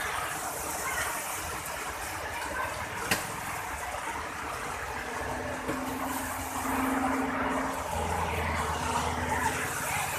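Heavy rain with wind: a steady rushing hiss. A single sharp click comes about three seconds in, and a faint low hum in the second half.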